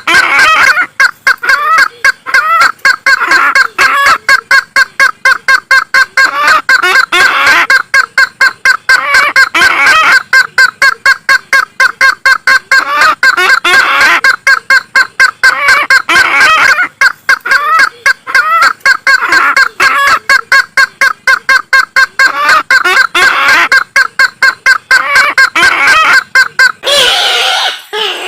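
Isabelline bush-hen (kareo sulawesi) calling, a lure-call recording: a fast, unbroken run of harsh repeated notes that swells into louder phrases about every two seconds. Near the end the pattern changes.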